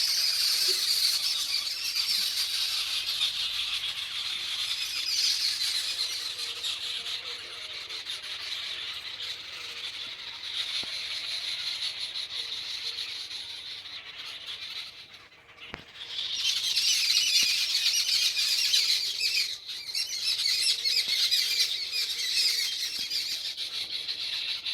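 Dense chorus of many birds chattering and squawking together, like a large flock. It thins out briefly about fifteen seconds in, then comes back just as loud.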